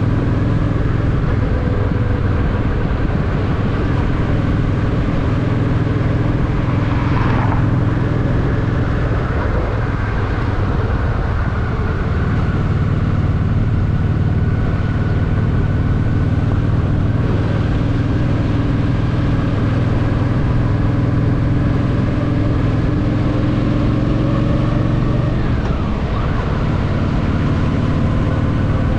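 Honda Shadow VT750's V-twin engine running steadily under way with a deep, even rumble, its note dipping briefly near the end.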